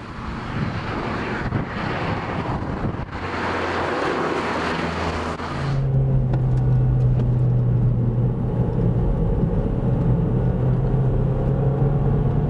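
Mazdaspeed3's turbocharged 2.3-litre four-cylinder engine driving through mountain curves: first heard from outside as a noisy rush of engine and road sound, then about six seconds in it switches to inside the cabin, where the engine gives a steady, even note held at one pitch while cruising.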